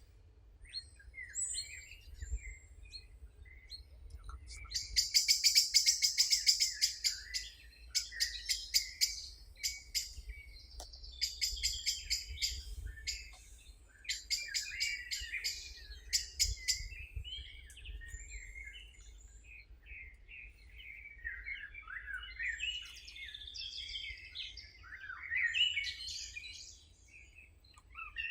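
Songbirds singing and chirping, with bursts of fast, rattling trills in the first half and more varied warbling phrases later. A faint low rumble runs underneath.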